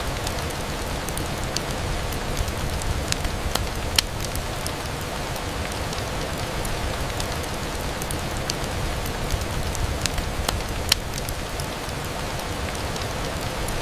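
Steady rain on a window, an even hiss with scattered sharp ticks of drops; the loudest ticks come about four seconds in and near eleven seconds.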